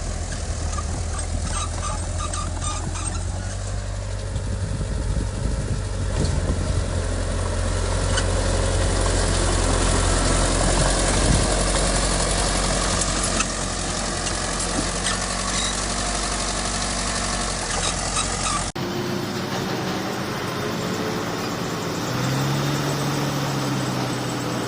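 Heavy diesel earth-moving machinery running steadily with a deep engine rumble. About three quarters through, the sound cuts abruptly to another stretch of engine noise whose pitch rises briefly near the end.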